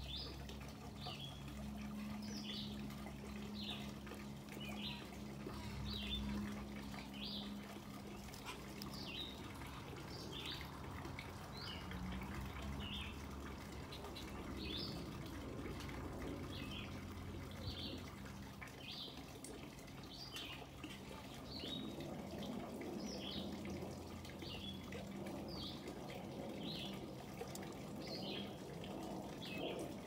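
A bird gives short, high chirps, each sliding down in pitch, repeated about once a second, over a steady low background hiss.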